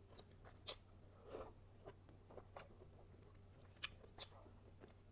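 Faint, wet mouth clicks and lip smacks of a person chewing soft steamed rice rolls close to the microphone, a handful of separate clicks spread out over a low steady hum.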